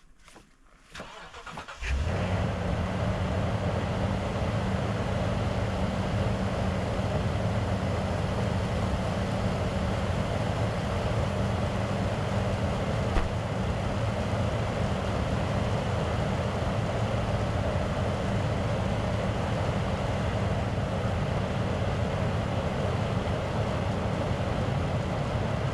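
Truck engine cranking briefly and catching about two seconds in, then running steadily.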